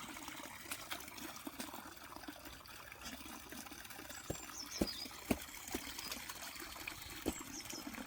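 Water trickling steadily, with scattered small drips or taps and a few faint high chirps.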